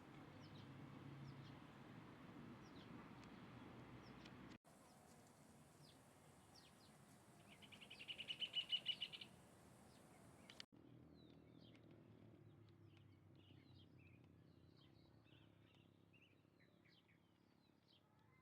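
Small birds chirping faintly and repeatedly, with one louder rapid trill lasting under two seconds about eight seconds in, over a low steady rumble. The background changes abruptly twice, at about four and a half and ten and a half seconds.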